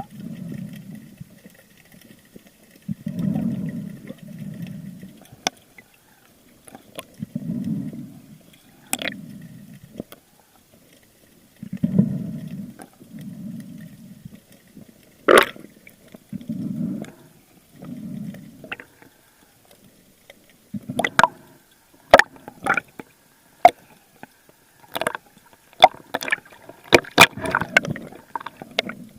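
A spearfisher breathing through a snorkel at the surface, a muffled in-and-out pair of breaths about every four to five seconds. From about two-thirds of the way in, these give way to a run of sharp clicks and splashes in the water.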